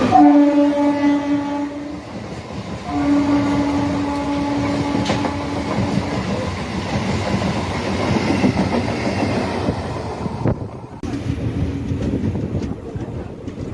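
Locomotive horn sounding twice, a short blast and then a longer one of about three seconds, heard from inside an ICF passenger coach. It is followed by the steady rumble and clatter of the coach's wheels running on the track.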